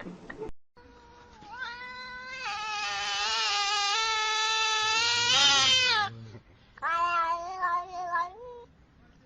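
A cat yowling: one long drawn-out yowl of about five seconds that grows louder, then after a short pause a second, shorter yowl.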